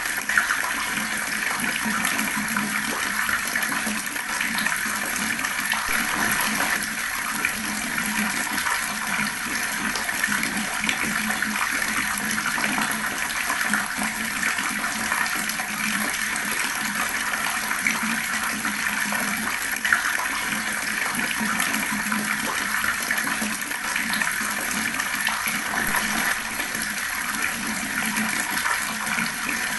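Fast-flowing water running steadily, a continuous even rush and splash with no pauses.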